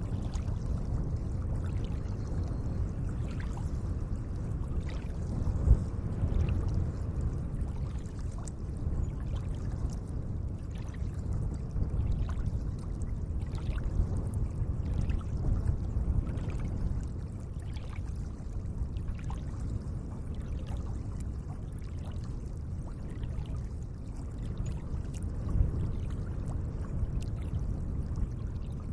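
Gentle lake water moving, a steady low wash with many small splashes and drips. Two slightly louder splashes come about six seconds in and near the end.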